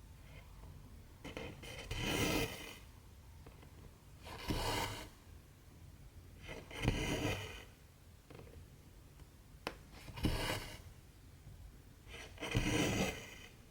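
Cotton embroidery thread being pulled through 14-count cross-stitch fabric: five rasping draws about every two and a half seconds, each lasting under a second.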